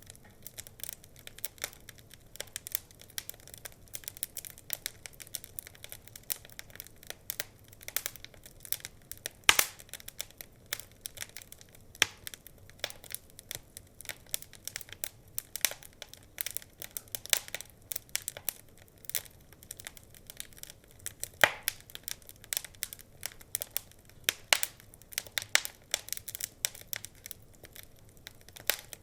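Wood fire crackling in a fireplace: a constant run of small, irregular snaps and pops, with a few louder pops scattered through.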